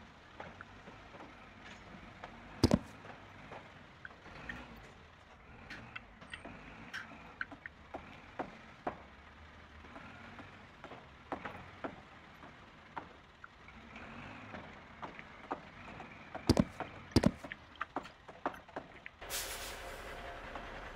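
Small toy construction vehicles being handled and set down: scattered light clicks and knocks, with a few louder knocks about three seconds in and twice near sixteen seconds. A steady rushing noise sets in near the end.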